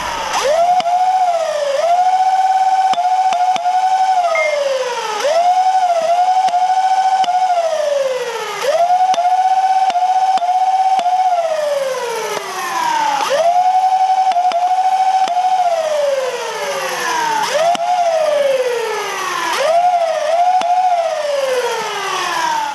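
A siren wailing: a single pitched tone that sweeps quickly up, holds, then glides slowly down, over and over about every four seconds, before cutting off abruptly.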